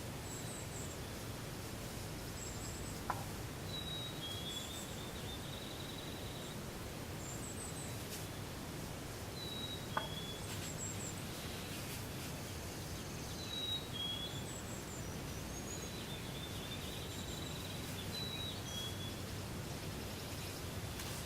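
Small birds calling repeatedly in short high chirps, one with a brief trill, over a steady low outdoor background noise. Two sharp clicks sound about 3 seconds and 10 seconds in.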